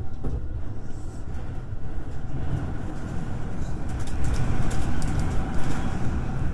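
Electric commuter train running on the rails: a steady low rumble of wheels and motors, growing a little louder about four seconds in, with a run of sharp clicks and rattles from then on.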